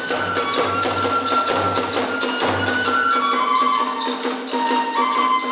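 Hiroshima kagura hayashi music: a bamboo flute plays a held melody that steps down in pitch over fast, steady drum strokes and small hand cymbals, with deep thuds from the large drum.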